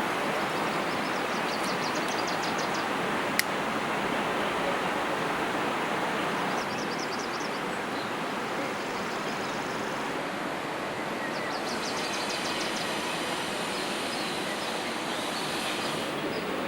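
Steady outdoor rushing noise with a brief sharp click about three seconds in, and short high chirping trills three times.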